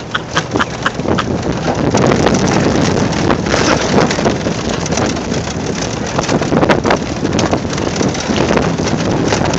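Wind buffeting the microphone over the steady rumble of a towed john boat and the vehicle pulling it, with a quick run of knocks and rattles in the first second and a few more about halfway through.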